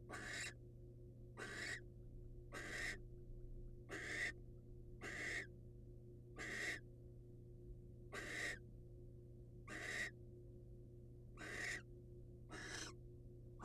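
Barn owl giving about ten short, harsh hissing calls, one every second or so: the rasping begging or "snoring" call used to ask for food. A steady low electrical hum runs underneath.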